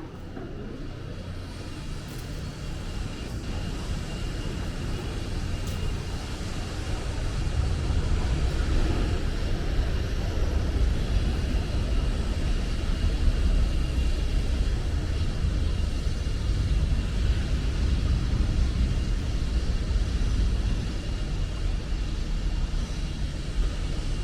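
Steady low rumble of a vehicle in motion, growing louder over the first eight seconds and then holding steady, with a faint high whine running through it.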